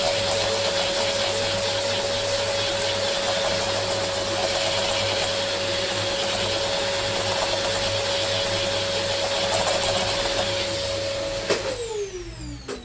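Electric air blower running steadily, a hiss of rushing air with a steady motor whine, blowing over the laptop keyboard. Near the end it is switched off and the whine falls in pitch as the motor spins down.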